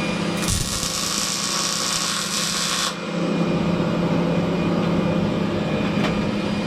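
MIG welding arc struck on steel and held for about two and a half seconds, a dense crackling hiss that starts with a low thud and cuts off abruptly. It is a test run made after the welder's power has been turned up. Under it and after it, a fume extractor runs with a steady hum.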